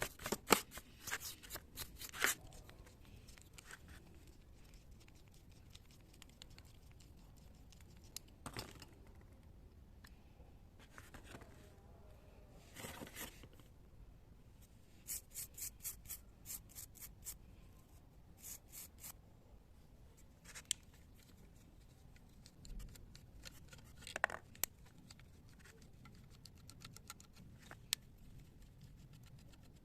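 Intermittent light scraping, scratching and clicking from hand tools worked on small carburetor parts. There are runs of quick clicks near the start and around the middle, a few single sharp knocks later, and quiet gaps in between.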